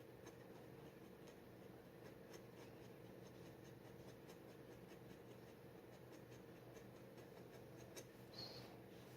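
G-nib dip pen scratching across paper in many short, faint strokes, one a little stronger near the end, over a faint steady hum.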